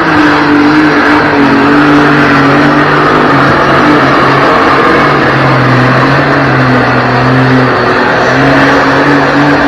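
Competition pulling tractor's engine running at high revs under full load while it hauls the weight-transfer sled down the track, a loud sustained note that steps slightly in pitch a few times.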